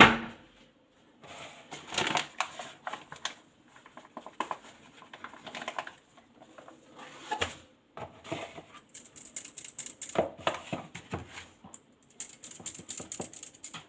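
Flour being sifted: a kitchen sieve rattled and tapped over a bowl in bursts of rapid clicks and scrapes, fastest near the end. A sharp knock comes right at the start.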